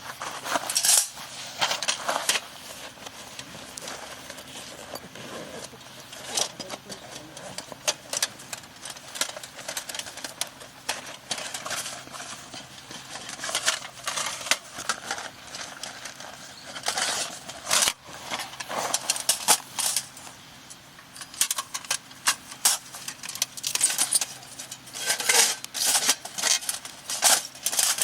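Metal camp cookware and utensils being handled: irregular clinks and clatter, busier in a few short spells.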